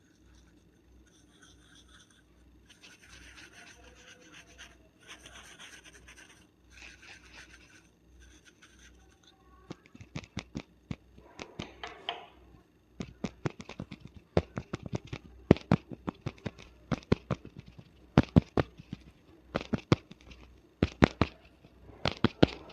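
Fingernails scratching and rustling through hair on a scalp, soft and patchy. About ten seconds in, a run of sharp, irregular clicks begins and grows louder.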